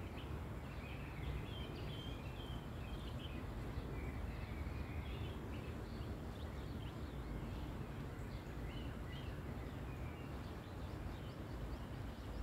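Small birds chirping, many short high calls scattered throughout, over a steady low outdoor rumble.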